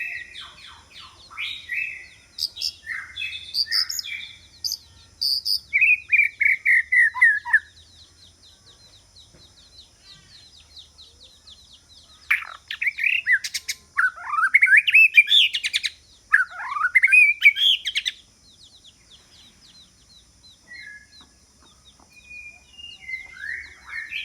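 White-rumped shama singing: bouts of rich, varied whistled phrases a few seconds long, with quiet pauses between them.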